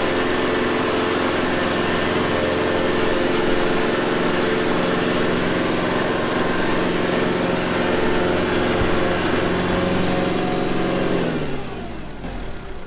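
Kubota L4701 compact tractor's diesel engine held at high revs while the tractor is bogged in mud, then the revs fall away about eleven seconds in.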